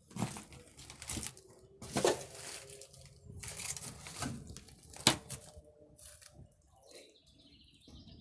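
Footsteps crunching and scraping over debris on the floor, in irregular bursts with a few sharp cracks, one of the loudest about five seconds in.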